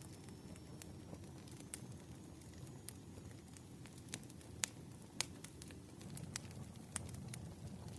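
Wood campfire crackling: irregular sharp pops and snaps, a few louder ones near the middle, over a low steady rumble of burning logs.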